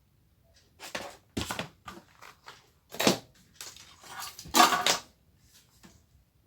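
Short clatters and scrapes of small hand tools and a jumper wire being worked on a TV circuit board, five or so in a row, the loudest about four and a half seconds in.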